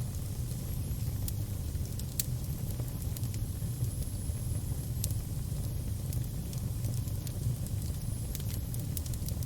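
Fire burning with a steady low rumble and scattered sharp crackles and pops, the loudest about two seconds in and again about five seconds in.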